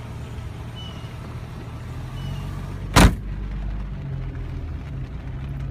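A car's steady low rumble, with a single sharp thump about three seconds in.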